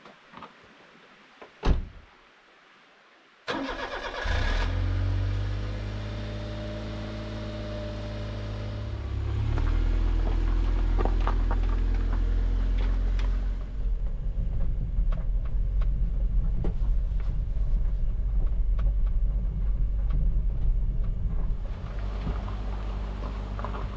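A single thump, then a kei truck's engine cranks briefly, catches and settles into a steady idle. It runs faster and louder for the second half.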